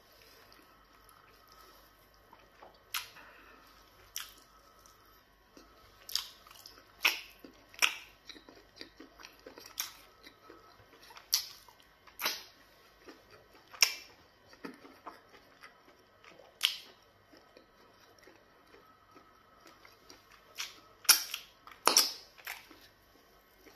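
A person chewing goat meat, fufu and black soup eaten by hand, with wet mouth smacks and sharp clicks every second or two, loudest in a cluster near the end.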